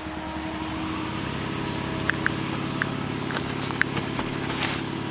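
Steady low mechanical hum from the Hummer H2, growing a little louder about a second in, with a scatter of light clicks and knocks over the second half.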